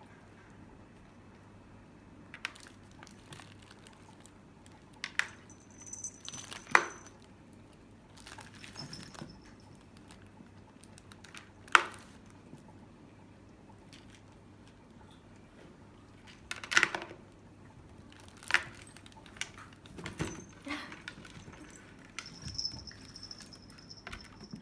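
Cat toys being dropped and handled into a box: scattered light knocks and clatters at irregular intervals, a few of them sharper, with brief high jingles now and then.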